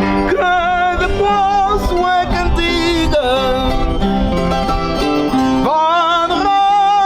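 Folk singing with strong vibrato, accompanied by plucked and strummed string instruments and an accordion.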